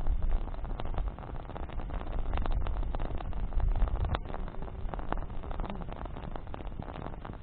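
Bonfire of burning branches crackling, with frequent sharp pops over a steady low rumble.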